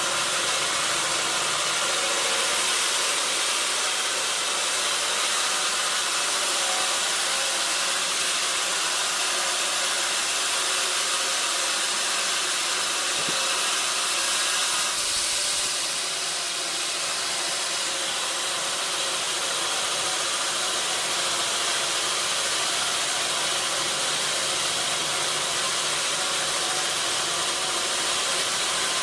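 Sawmill machinery running steadily, a continuous mechanical hiss with a faint steady hum; it shifts slightly and dips in level about halfway through.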